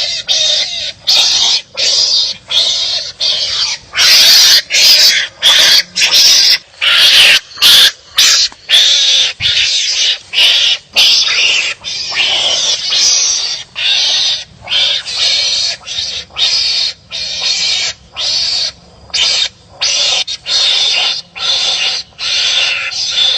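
Wild animals squabbling, giving harsh, rasping calls over and over, roughly one or two a second, with short gaps between them.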